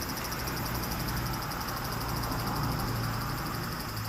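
Steady chorus of insects, a high-pitched rapid pulsing trill, over a low steady hum.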